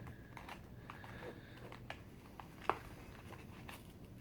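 Scattered light clicks and taps of a fireworks package being handled, with one sharper click about two and a half seconds in.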